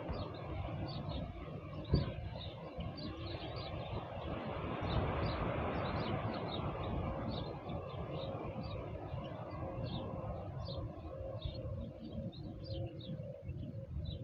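Small birds chirping over and over, high and short, above a low steady rumble of outdoor noise, with one sharp knock about two seconds in.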